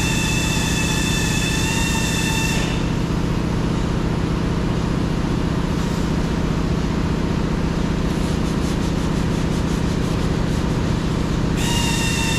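Power sander running steadily on body filler, with a rubbing, grinding noise over a constant low hum. A high whine cuts out about three seconds in and comes back near the end.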